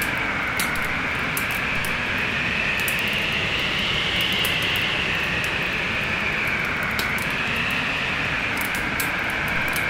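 Wood fire crackling with frequent sharp pops over a steady storm wind whose howl slowly rises and falls in pitch.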